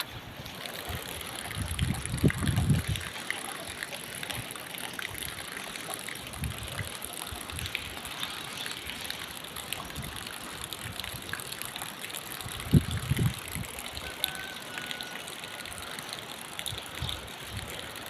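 Steady rush of running water, with two short low rumbles, one a couple of seconds in and one about two-thirds of the way through.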